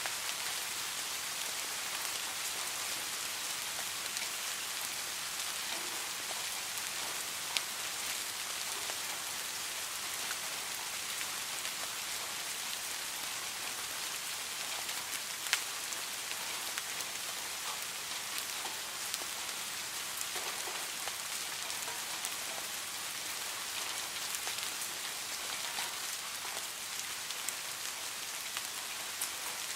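Steady rain falling: a dense, even hiss with scattered sharper drop ticks, two of them standing out a little past a quarter and about halfway through.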